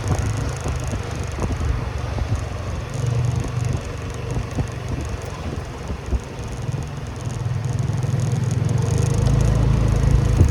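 Motorcycle engine running as the bike rides along, a steady low rumble with road and wind noise, getting louder over the last couple of seconds.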